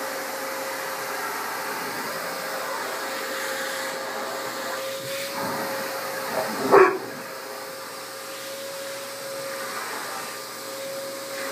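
Vacuum cleaner running steadily with a constant motor whine as it is used on a dog's coat. A little past halfway a dog gives one short, loud bark.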